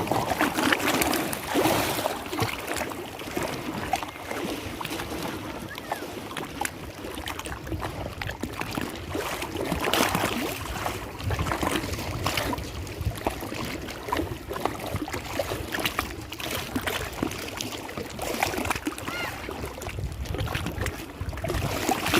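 Lake water sloshing and splashing in irregular surges, a continuous rushing wash broken by many short splashes.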